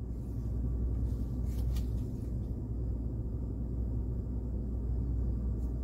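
A 2012 Chevrolet Avalanche's V8 idling, heard from inside the cab as a low, steady rumble, with a few faint clicks.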